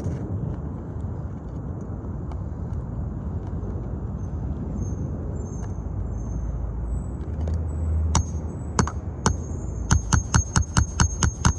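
Rapid metallic hammering during a shingle repair, about four blows a second with a ringing tone, starting near the end after a few single strikes. A steady low rumble runs underneath.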